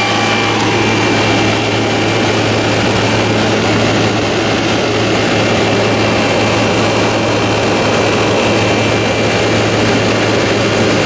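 The outdoor condenser side of a vintage room air conditioner running steadily: the condenser fan's rush of air over a low, constant hum from the rotary compressor. It runs hot but normally under a heavy heat load.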